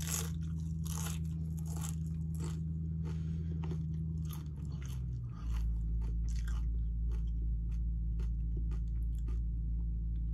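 Nacho tortilla chips crunching and being chewed in the mouth, with repeated crisp crunches. A steady low hum runs underneath and gets louder about five seconds in.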